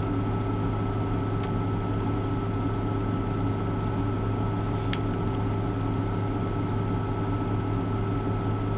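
Steady low drone of an idling semi truck, heard inside its cab, with a faint click about five seconds in.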